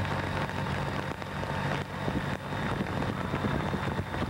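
Camera motorcycle's engine running steadily with a low hum while pacing the racers, over a steady hiss of wind and wet road.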